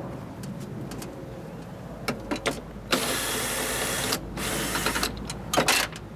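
Mechanical work inside a car door while a window regulator is removed: a few clicks, then a steady mechanical whirr of about a second, a second shorter whirr, and loud metallic clacks near the end.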